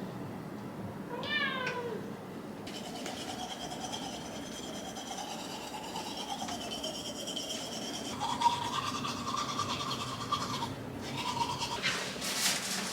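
Shiba Inu whining and grumbling in its drawn-out 'talking' voice: a short whine about a second in, then one long wavering whine-howl of several seconds that jumps higher in pitch toward the end, and a brief one after it. It is the dog complaining at being kept waiting.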